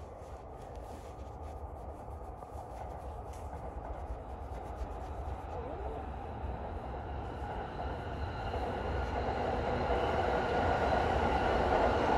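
Electric commuter train approaching on elevated track, its rumble growing steadily louder. A rising motor whine joins in over the second half.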